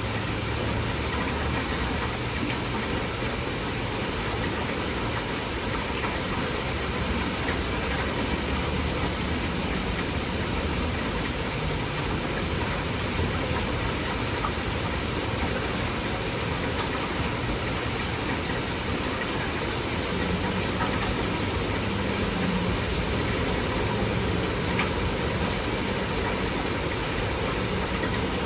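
Heavy rain falling in a steady downpour, with a low steady hum underneath.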